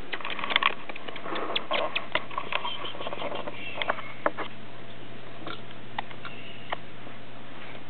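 Quaker parrot making soft, sharp clicking sounds, quick and frequent for the first few seconds and then only now and then, with a couple of faint high chirps.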